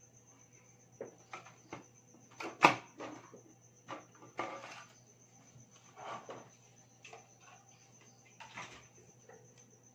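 Sharp clicks and knocks with a few short rustling scrapes, the loudest a single sharp click a little under three seconds in: hands handling an LED panel light and taking out its driver unit.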